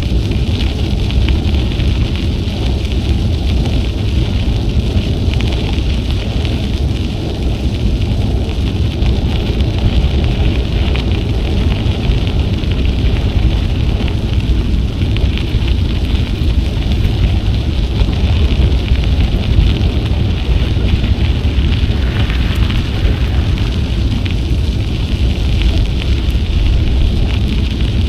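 Wind buffeting an action camera's microphone while cycling, a steady low rumble, with a fine crackle from the bicycle's tyres rolling over the trail surface.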